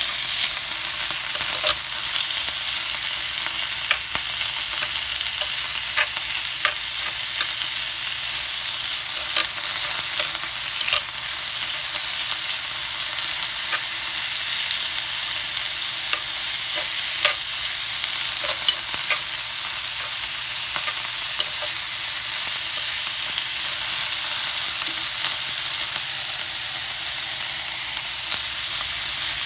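Chicken, onion and carrot sizzling steadily on a hot griddle pan while being stir-fried, with scattered clicks and scrapes of metal tongs against the pan, more often in the first two-thirds.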